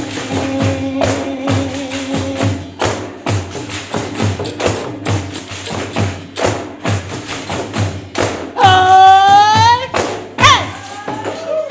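Pandeiros, frame drums with jingles, played together in a steady rhythm of hand strikes. About eight and a half seconds in, a loud high voice cry bends in pitch over a second or so, followed by a shorter one.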